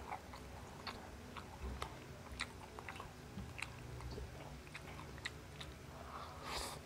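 A person chewing rice and fried egg eaten by hand: scattered soft mouth clicks and smacks, with a short hiss-like burst of breath near the end.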